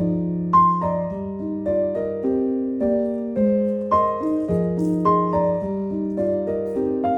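Background music: a gentle piano melody, notes struck about every half second and left ringing.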